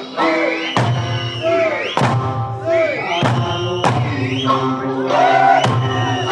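Okinawan eisa music: a folk song sung over sanshin accompaniment, with heavy taiko drum strikes landing every second or two.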